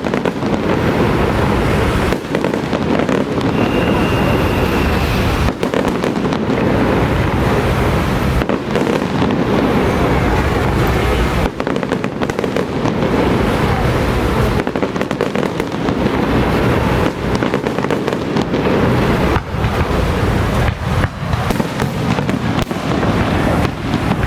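A long string of firecrackers going off as a dense, continuous crackle, with a few sudden brief gaps.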